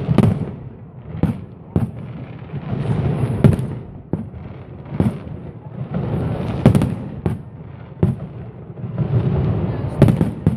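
Fireworks display: aerial shells bursting with sharp bangs every second or so, some in quick pairs, between stretches of crackling.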